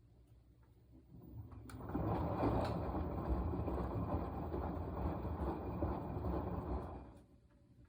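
Washing machine drum turning with wet laundry sloshing. The sound swells up about a second in, runs for about five seconds, then dies away as the drum stops, the start-and-pause tumbling of a wash cycle.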